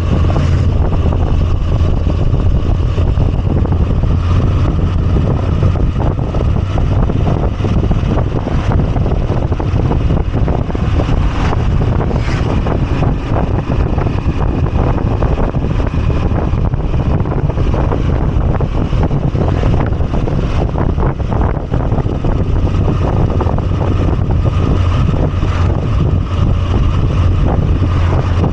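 Moto Guzzi V85TT's air-cooled V-twin engine running steadily while riding, a low even drone with road and wind rush on top.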